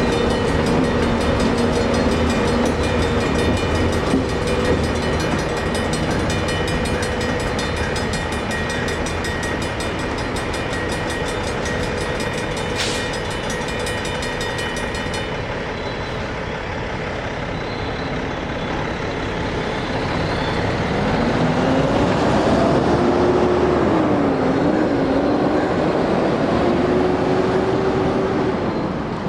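Safetran mechanical grade-crossing bell ringing rapidly over the rumble of a passing freight train. The bell stops abruptly about halfway through, which at this crossing happens when the gates start rising. Later an engine can be heard rising in pitch, dipping and rising again, as a vehicle pulls away.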